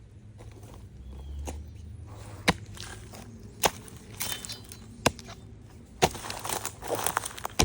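Footsteps and hands moving through dry forest leaf litter and sticks, with three sharp snaps spaced about a second apart, then a dense crackling rustle near the end.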